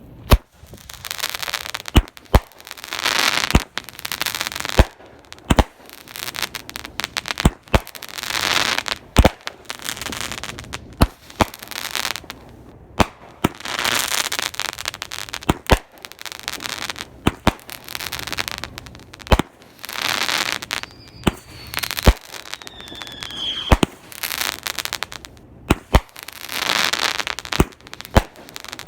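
Fireworks going off in a steady series: sharp bangs, each followed by about a second of crackling, recurring every two to three seconds. A whistle falls in pitch about two-thirds of the way through.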